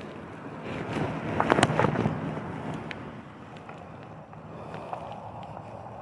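Steady rushing outdoor background noise with wind on the microphone. It swells for a moment about a second in, with a few short clicks and rustles.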